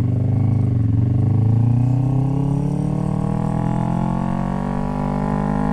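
Motorcycle engine running under load, its pitch rising slowly and steadily as the bike gains speed, with low wind rumble on the microphone.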